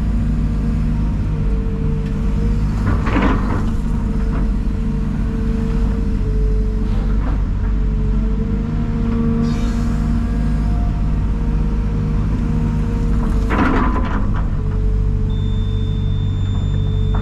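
Large diesel engine running steadily with a deep rumble and an even pitch, with two brief hissing rushes, one about three seconds in and one about fourteen seconds in.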